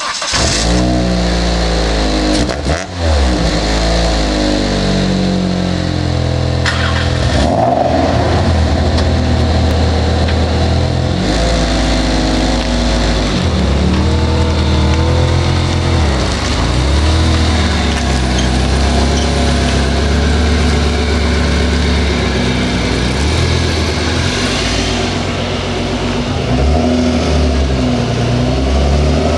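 Car engine running through its exhaust, revved up and down several times between steady stretches.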